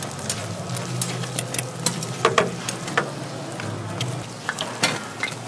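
Millet pancakes sizzling in oil on a flat griddle, with metal tongs clicking and clinking many times as the pancakes are turned and lifted onto a wire rack.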